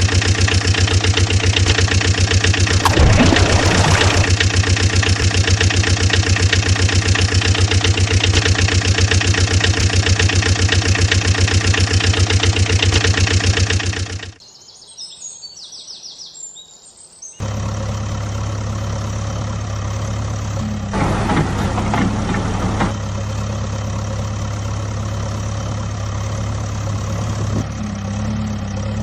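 Diesel engine idling with a fast, even chug; it stops abruptly about halfway through, leaving about three seconds of faint chirping, then another engine starts up idling steadily, briefly louder a few seconds later.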